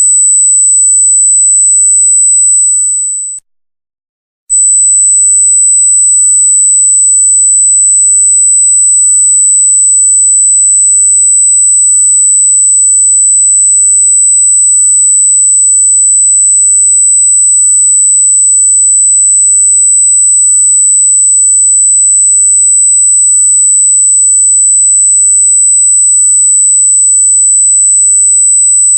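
A loud, very high-pitched, steady electronic pure tone, meant as an annoying noise. It fades out a few seconds in, stops for about a second, then comes back abruptly at the same pitch and holds steady.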